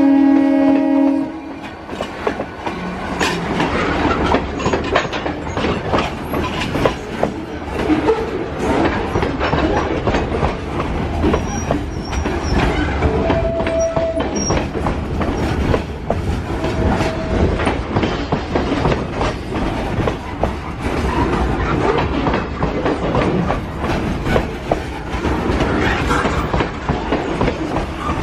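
A train passing close by, its wheels clicking over rail joints over a steady rumble. A horn chord sounds at the start and cuts off about a second in, and two short squeals come through later.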